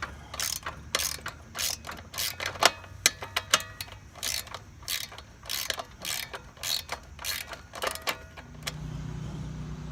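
Ratcheting wrench clicking in irregular runs, one or two clicks a second, as a deck-panel screw is backed out. The clicking stops shortly before the end.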